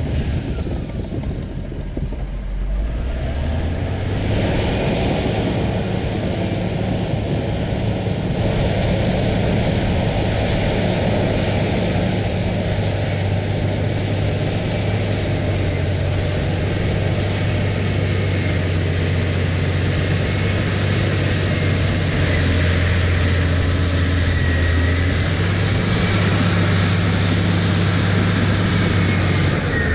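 Diesel engine of an earthmoving machine working while pushing topsoil, dipping briefly about two seconds in, then picking up again and running steadily under load. Faint high squeaks sound over it in the middle stretch.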